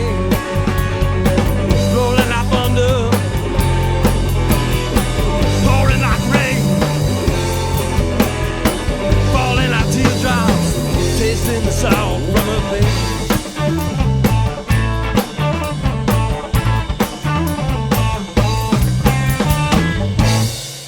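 Instrumental close of a rock song: drum kit with cymbals, a bass line and a lead melody with wavering, bending notes, stopping abruptly at the end and leaving a short fading ring.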